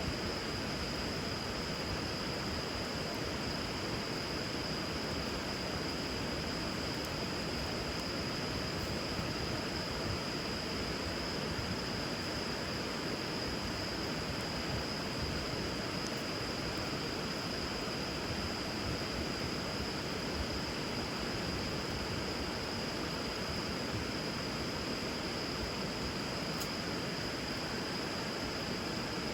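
River water rushing in a steady, even wash, with a few faint crackles from a wood fire burning on the water. A steady high-pitched tone sits over it throughout.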